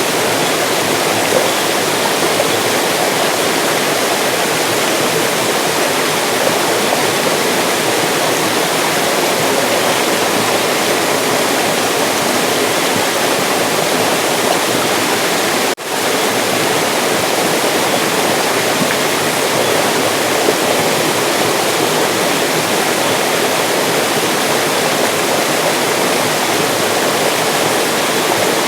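Mountain stream water rushing and splashing over rocks, a steady full rush, with a momentary dropout just past halfway.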